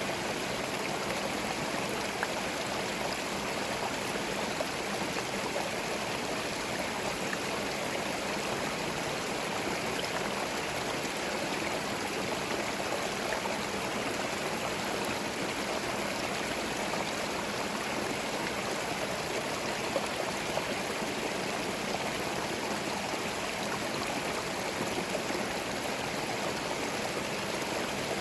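Small forest stream running steadily over stones, a continuous babble of flowing water with faint splashes.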